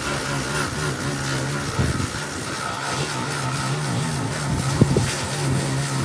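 An engine running at a steady speed with a low, even hum, and two short knocks, one about two seconds in and one near five seconds.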